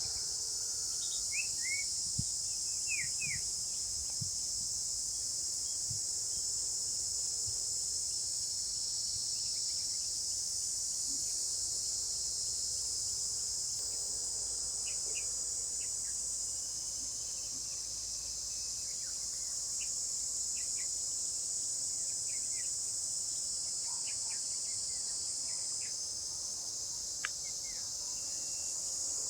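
Steady, high-pitched insect chorus, with brief bird chirps scattered over it.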